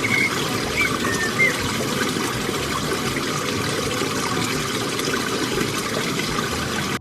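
Steady rushing of running water, with a few short high chirps in the first second and a half.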